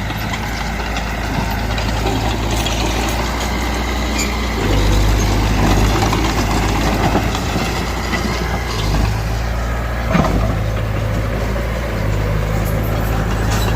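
Heavy diesel earthmoving machinery running steadily, its low engine note getting louder in stretches as the load changes, with a sharp knock about ten seconds in.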